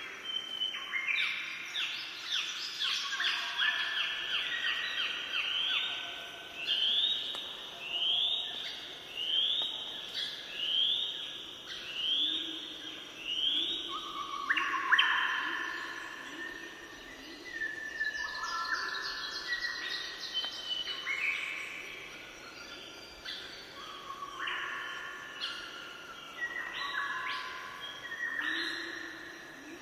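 Songbird singing: rapid strings of high chirps, with a run of repeated sweeping notes at about one a second in the middle.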